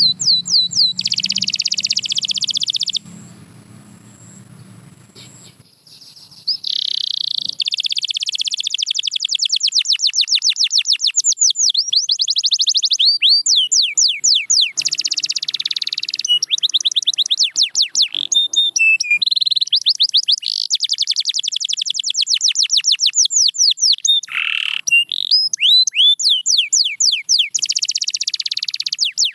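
Domestic canary singing fast trills of rapidly repeated, sweeping high notes, broken by a pause of about three seconds near the start.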